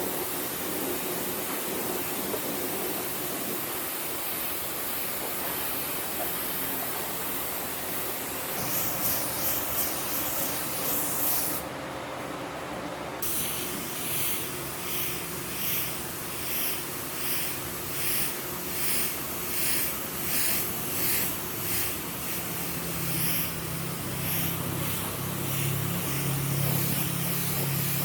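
Compressed-air spray hissing, steady at first, then in short repeated passes about once a second. A low hum runs underneath near the end.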